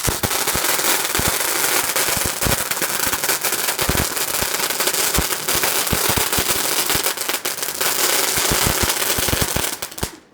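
Firework going off: a loud, dense hissing crackle that stops suddenly near the end.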